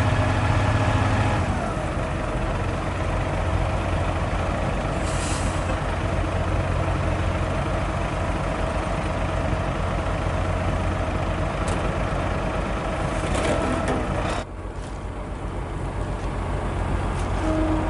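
Hino 500 FM320TI truck's diesel engine running under way, heard from inside the cab, with a short air hiss about five seconds in. Near the two-thirds mark the engine sound drops off abruptly, then builds back up over a few seconds.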